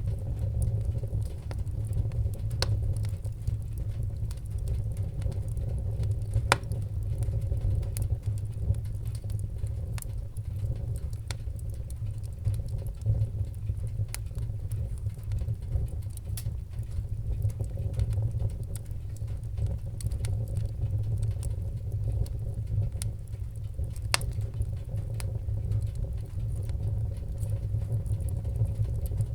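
Fireplace wood fire crackling: irregular sharp pops and snaps, a few louder than the rest, over a steady low rumble of the burning fire.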